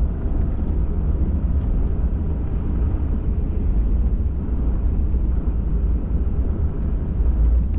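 Steady low rumble of a pickup truck driving along a trail, heard from inside the cab: engine and tyre noise with no distinct events.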